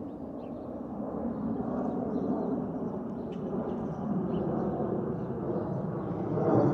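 Jet airliner engines heard outdoors as a steady rumbling roar, growing gradually louder.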